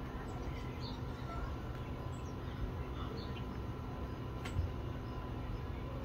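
Faint, scattered short high bird chirps over steady low background noise, with a single sharp knock about four and a half seconds in.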